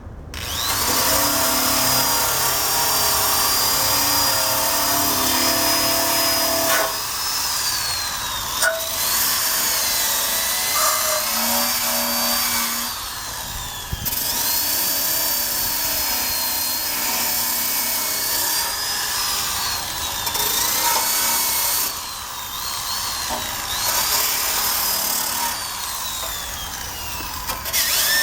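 Electric drill spinning a wire brush against the steel undercarriage of a 1965 Honda Cub, scrubbing off rust. The motor's high whine keeps running over a rough scraping noise, sagging and falling away several times as the drill eases off, then picking back up.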